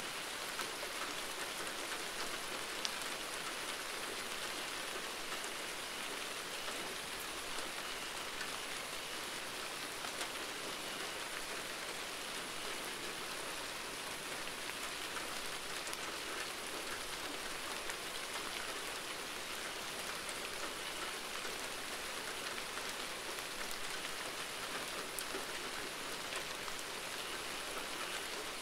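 Steady rain falling, an even hiss of drops with an occasional louder tick.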